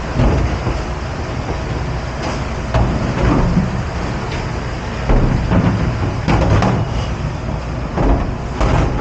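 Dish pit noise: a steady low rumble of kitchen machinery with short knocks and clatters of dishware and equipment now and then.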